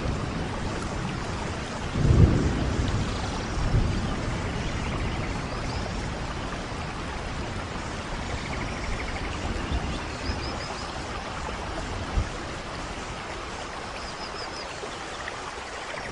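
Steady rain with low thunder rumbles. A rumble swells about two seconds in and a smaller one near four seconds.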